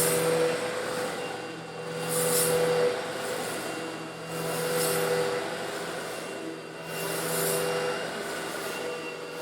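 Eureka vacuum cleaner running with a steady motor hum, sucking up coarse stone granules. The hiss and rattle of the grit swells about every two and a half seconds.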